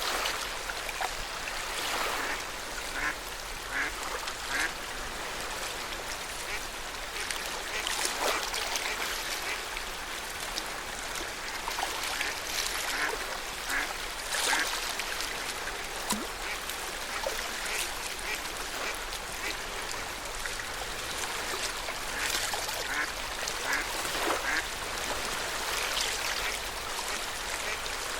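Small waves on Lake Yamanaka lapping at the shore in a steady wash, with frequent short, irregular slaps and splashes.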